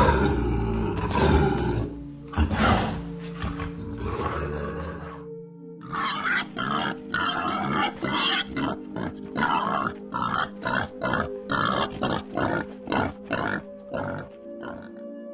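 Pig grunting in a steady series of short grunts, about two a second, over background music. Before that, a louder animal call, roar-like, fills the first five seconds and cuts off abruptly.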